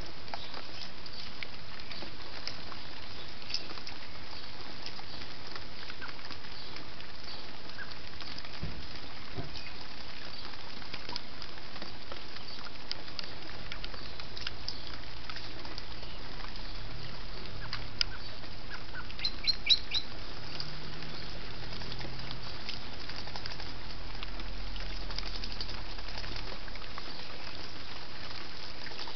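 Outdoor garden ambience: a steady hiss with faint scattered bird chirps, and a quick run of four or five short, sharp bird call notes about two thirds of the way in. A low drone comes in around halfway and fades near the end.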